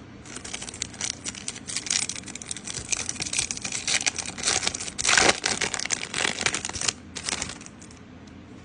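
Foil Pokémon card booster pack being torn open and handled, a dense, irregular crinkling and crackling of the wrapper, loudest about five seconds in, then quieter.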